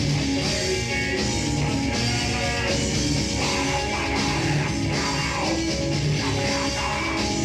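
A heavy metal band playing live, an instrumental passage of electric guitars over a fast, steady drum kit beat.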